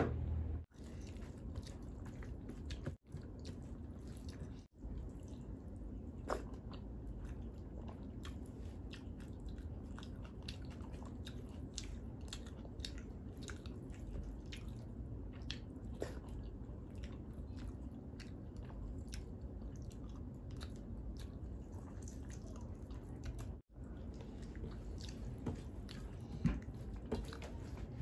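Close-up chewing and wet mouth clicks of someone eating rice mixed with dal and Bombay-duck (loita) fry by hand, with fingers squishing rice on the plate. The sound drops out for an instant a few times.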